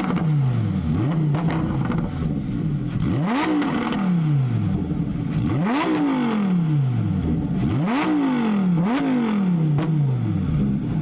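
A high-performance car engine being free-revved in neutral: about five throttle blips, each rising sharply and falling away more slowly to a steady idle.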